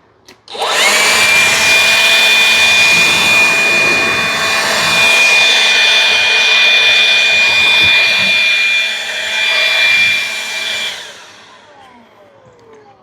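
Cordless blower spinning up to full speed with a steady high whine and rush of air for about ten seconds. Near the end the trigger is released and it winds down, its pitch falling.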